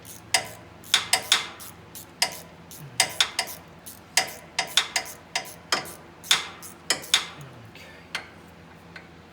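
Ratchet with a 12 mm socket and extension working a parking brake caliper bolt: irregular sharp metallic clicks and clanks, a few a second, thinning out about seven seconds in.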